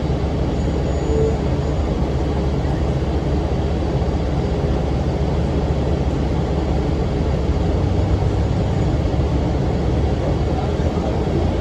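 Steady low drone of a 2006 NABI 40-foot low-floor transit bus's Cummins ISM diesel engine, with its engine cooling fan running.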